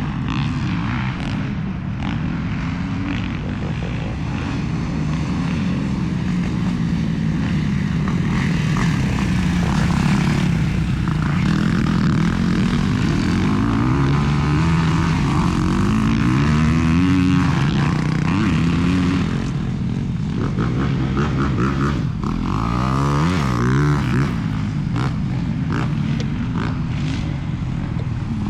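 Several motocross dirt bikes riding the track together, their engines revving up and dropping back again and again as they accelerate and shift, the pitches overlapping.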